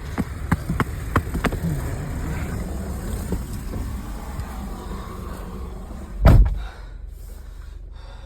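A car door slams shut once, loudly, about six seconds in. Before it come a handful of sharp clicks and knocks, over the steady low rumble of the idling car engine.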